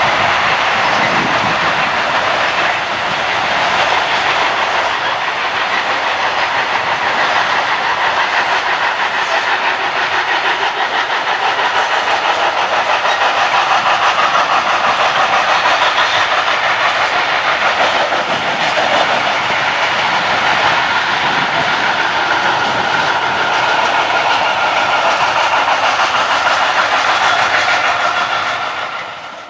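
Long electric-hauled freight train of covered bogie wagons rolling past, a loud steady rumble and clatter of wheels on rails. The sound dies away quickly near the end as the last wagons go by.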